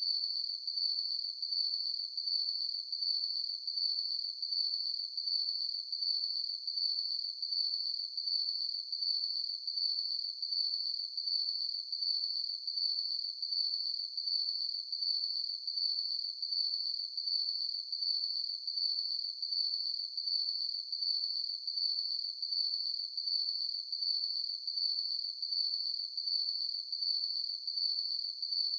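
Cricket chirping: a single high-pitched trill that pulses in an even, unbroken rhythm.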